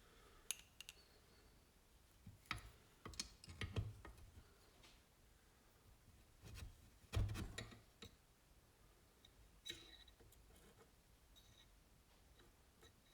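Metal engine parts and tools being handled on a workbench: scattered light clicks and knocks, with a dull thump about seven seconds in.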